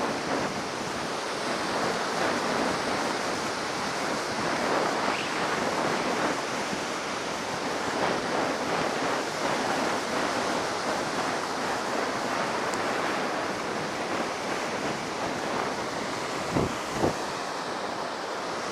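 Heavy surf breaking continuously, high after a typhoon, with wind buffeting the microphone. Two brief thumps come near the end.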